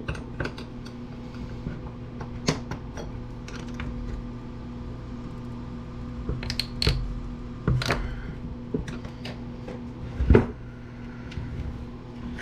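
Hand tools and small metal and plastic parts clicking and knocking while a power-tool housing is pried apart, a handful of sharp knocks scattered through, the loudest about ten seconds in, over a steady low hum.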